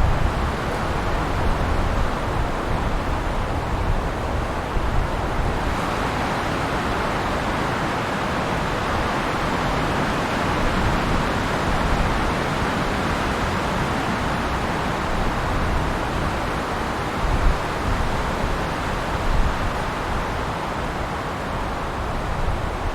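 Wind blowing through pine trees: a steady rushing hiss of needles and branches with a deep rumble beneath, swelling a little about six seconds in.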